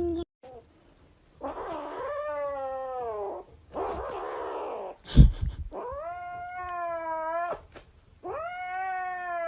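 A cat yowling in three long, drawn-out wails, each rising and then falling in pitch, with a sudden thump about five seconds in.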